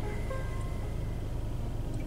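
Soft background music of single held notes over the steady low rumble of a car engine idling, heard inside the car's cabin.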